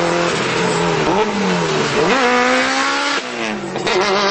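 Honda Civic EG6 four-cylinder engine revving hard: the pitch dips and rises twice, then holds high and climbs slowly, drops briefly about three seconds in, and climbs again.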